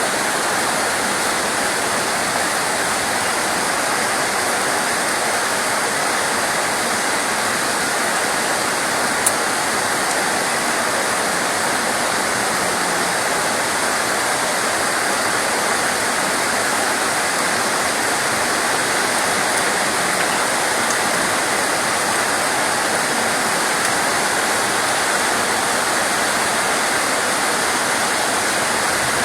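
Steady, heavy rain: an even rushing hiss that does not change, with a single short click about nine seconds in.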